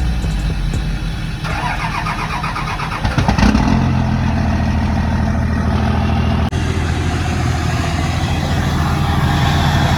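A truck engine catching with a loud surge about three seconds in, then running steadily at idle.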